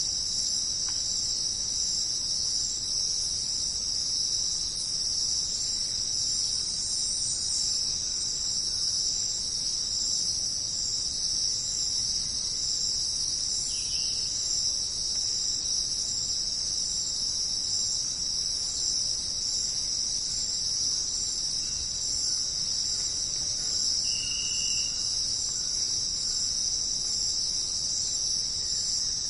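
Dense, steady chorus of crickets and other insects trilling high, without a break. Two brief faint chirps stand out, about halfway through and again near the end.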